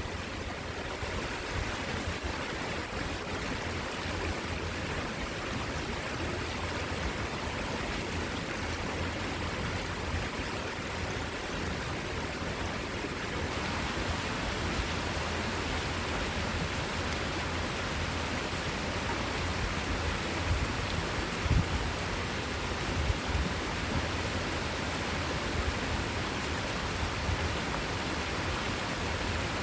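Steady rushing of a fast-flowing river, with a few brief low thumps about two-thirds of the way through.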